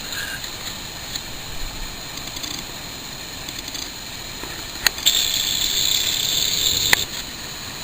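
Strong wind gusting against the microphone, heard as a steady rushing noise. About five seconds in, a sharp click opens a louder, high hiss lasting about two seconds, which ends with another click.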